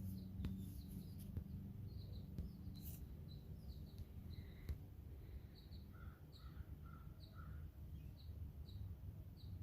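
House finches giving a faint run of short, high chirping calls at an irregular pace, with a few lower notes in the middle, over a low steady background hum.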